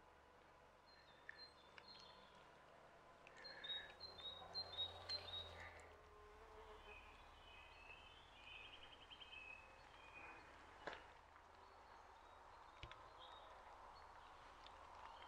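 Faint birdsong: a run of short high chirps a few seconds in and a brief rapid trill about halfway through, over a very quiet outdoor background. A single sharp click sounds a little later.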